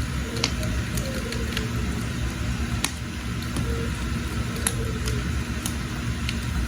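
Wood fire burning in a cooking hearth: a steady low rumble with scattered sharp crackles and pops from the burning firewood.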